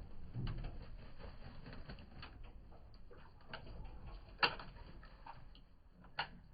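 Racing pigeons moving about a loft: scattered light taps and clicks, with a sharper click about four and a half seconds in and another near the end.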